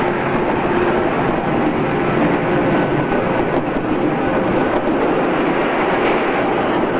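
JR East 113 series electric train running at steady speed, recorded on cassette tape: continuous rumble of wheels on rail with a steady whine from the drive.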